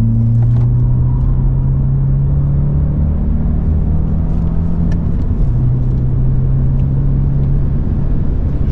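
A BMW 120i's B48 2.0-litre turbocharged four-cylinder engine running hard under load at a steady pitch, with a short break in its note about five seconds in.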